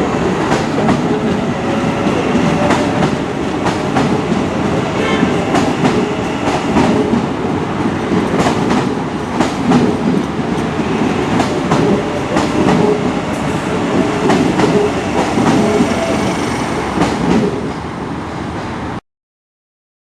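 Train running along the track, its wheels clicking over rail joints amid a steady rumble. The sound cuts off abruptly near the end.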